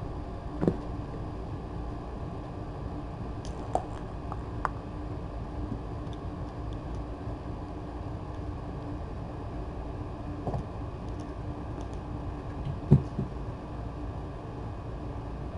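Steady low room hum, like a fan, with a few scattered short knocks and clicks, the loudest a knock about thirteen seconds in.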